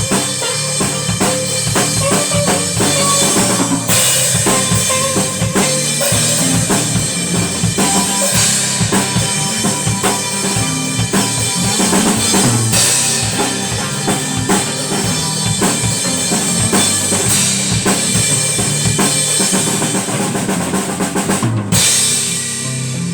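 Live band playing a song driven by a full drum kit with kick, snare and cymbals. The song ends on a final hit about 22 seconds in.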